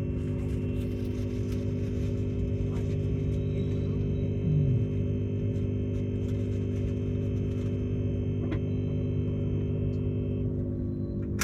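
Steady electrical hum from a stationary electric tilt train's onboard equipment, made of several fixed tones, with a higher whine that stops near the end and a few light clicks.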